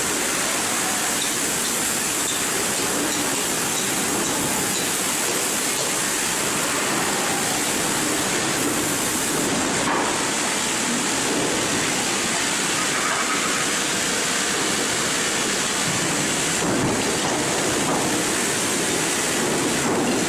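Steady, loud rushing noise of sawmill machinery running, with no clear pitch or rhythm.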